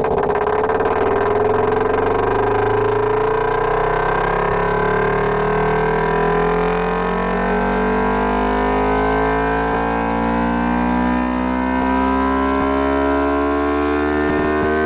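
Ducati Panigale V4 R's V4 engine running, its pitch dipping slightly at first and then climbing slowly and steadily.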